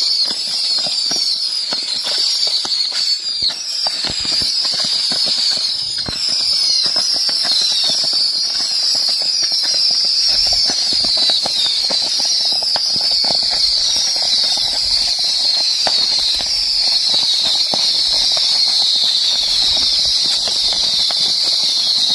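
Hundreds of small whistling baby rockets (babypijlen) going off together from a rack: a dense, continuous screech of many high whistles, each falling in pitch, over constant crackling pops.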